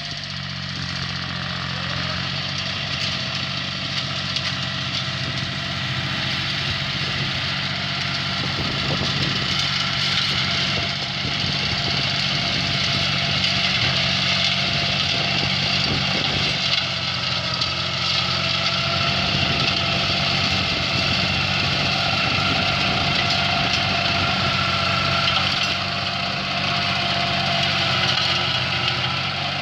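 An engine running steadily, with a thin whine above its low note; it grows gradually louder over the first ten seconds or so and then holds.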